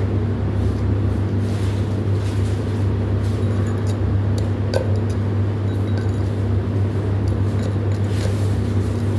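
A motor or engine running steadily with a low, even hum, with a few light clicks and clinks over it.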